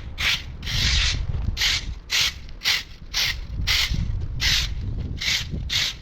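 Hand saw cutting through a branch in quick back-and-forth strokes, about two a second, each a rasping rub, over a steady low rumble.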